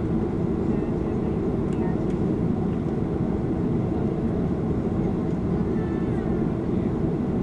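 Steady engine and airframe noise of a Boeing 737-400 heard from inside the passenger cabin, a constant low-pitched noise with no change in level.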